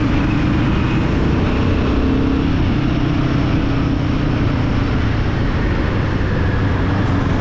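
Royal Enfield Guerilla 450's single-cylinder engine running at a fairly steady speed while riding, over a steady rush of road and wind noise.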